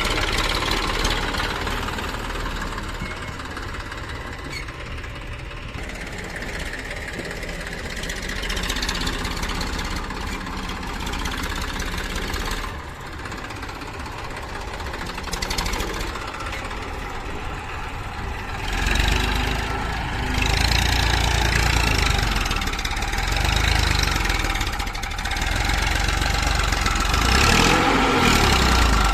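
Diesel engines of a backhoe loader and tractors idling and running steadily, with a heavier, louder rumble starting about two-thirds of the way through.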